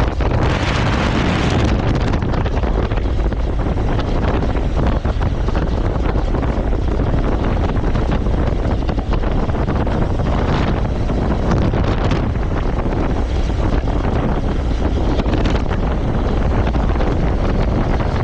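Wind buffeting the microphone on a moving motorcycle: a loud, steady, low rush of wind noise.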